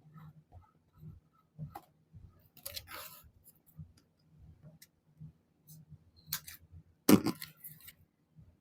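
Paper and craft supplies being handled at a desk: scattered rustles and light taps, with a short burst of rustling about three seconds in and a louder knock, like something set down, about seven seconds in.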